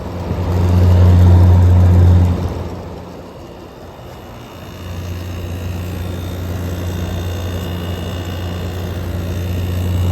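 General Electric air conditioner running in cool mode: a low, steady electric hum under a rush of fan air. The hum is loud for the first two seconds, drops back, then swells again from about five seconds in.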